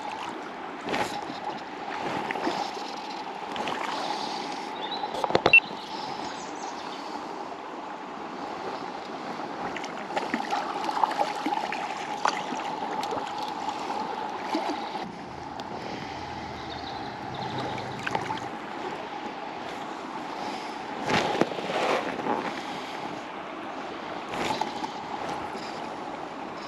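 River water running steadily, with scattered short knocks and splashes; the sharpest knock comes about five and a half seconds in.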